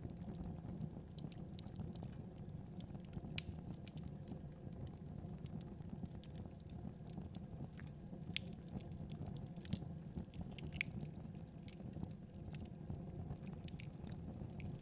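Wood fire burning with a steady low rumble and irregular crackles and pops, a few sharper pops standing out.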